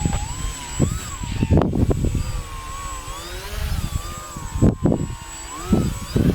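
Radio-controlled EPP Extra stunt plane in flight, its motor and propeller whine wavering up and down in pitch. Strong wind buffets the microphone in heavy thumps, loudest about one and a half seconds and five seconds in.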